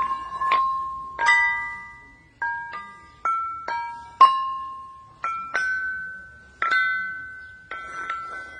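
Ringing stones (a lithophone) struck one after another, about a dozen notes at a few different pitches, each a clear bell-like tone that rings on and fades before the next strike, forming a simple tune.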